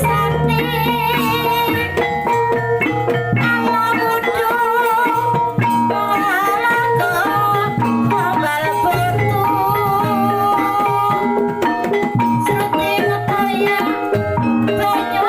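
Javanese kuda lumping accompaniment music: drums with ringing pitched percussion, played under a wavering, ornamented melody line.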